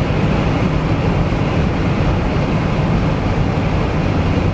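Steady rumble of a car driving, engine and tyre noise heard from inside the cabin.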